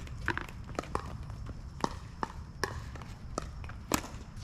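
Pickleball rally: sharp pops of paddles hitting the plastic ball and the ball bouncing on the court, about eight knocks at uneven spacing over four seconds, over a low steady rumble.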